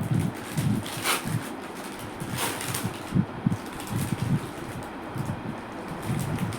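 Handling noise of packaging being unboxed close to the microphone: irregular low bumps, with two short rustles about one second and two and a half seconds in.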